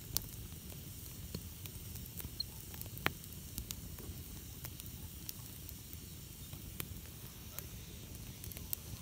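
Wood campfire crackling: scattered sharp pops and clicks, one louder pop about three seconds in, over a steady low rumble of the burning fire.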